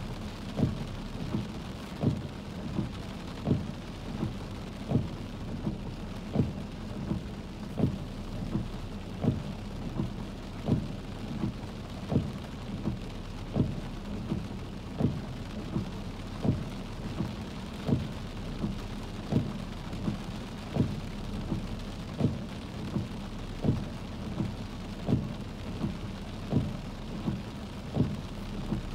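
Steady rain, with a dull low thud repeating evenly about every one and a half seconds.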